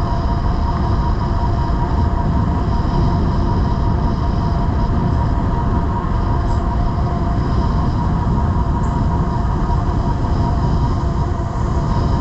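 Wind rushing over the microphone and tyre noise from an e-bike at speed, with the electric assist motor giving a steady whine.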